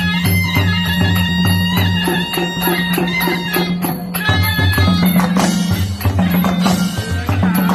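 Southern Thai Nora ensemble music: a reedy, bagpipe-like wind line over a fast repeating drum pattern, the percussion growing denser about halfway through.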